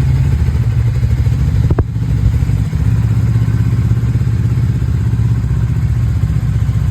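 Motorcycle engine running steadily at an even, unchanging speed, with a brief sharp click about two seconds in.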